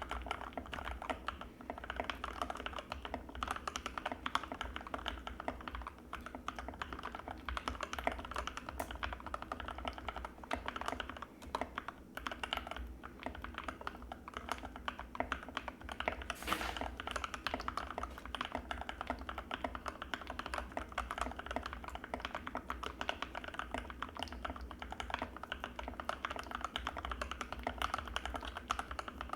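Continuous typing on an Anne Pro 2 mechanical keyboard with Gateron Red linear switches: a dense, steady stream of key clacks, with one louder stroke about sixteen seconds in.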